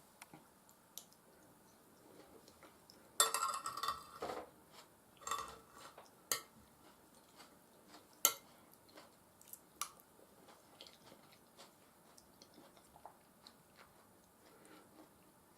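Close-miked eating: chewing with wet mouth sounds, and sharp clicks of a spoon or fork on a plate or bowl, the loudest clicks a little after six seconds and about eight seconds in, with a dense run of chewing and scraping about three to four and a half seconds in.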